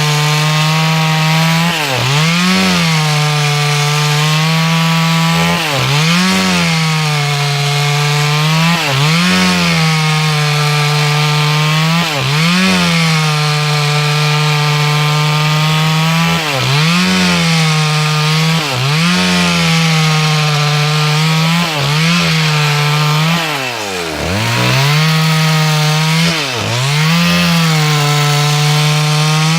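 Two-stroke chainsaw running at high revs while ripping a log lengthwise into boards. The engine speed dips briefly and recovers every two to four seconds, with the deepest dip near the end.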